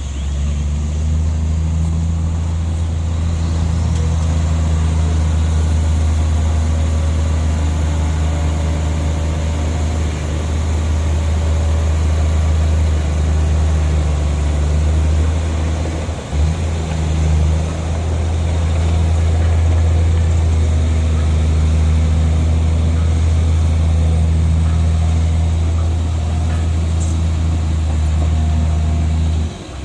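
Heavy diesel engine of earthmoving machinery running steadily under load, a low drone with a faint high whine above it and a brief dip about halfway through.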